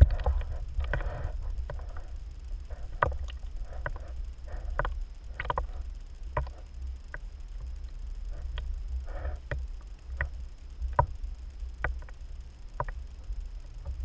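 Small boat on the water: sharp irregular knocks and slaps against the hull, about one or two a second, over a steady low rumble.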